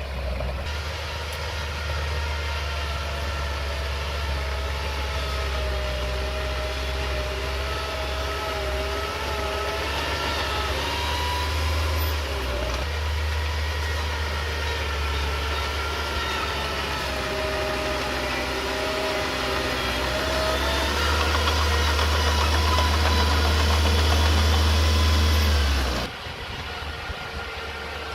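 Komatsu mini crawler bulldozer working: its diesel engine runs with a deep steady drone and a wavering whine above it. It grows louder about three-quarters of the way through, then the level drops off abruptly near the end.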